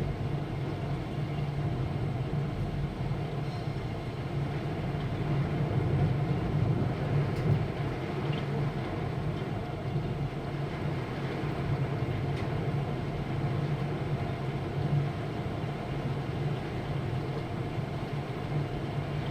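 Thunderstorm over a city: a steady low rumble under a hiss of rain, with a few faint ticks.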